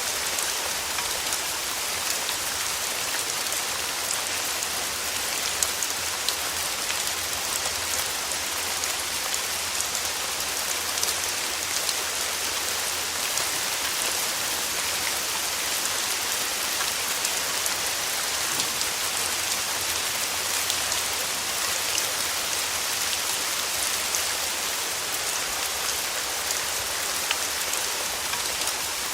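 Steady rain falling on a surface, a constant hiss filled with many small crisp drop ticks.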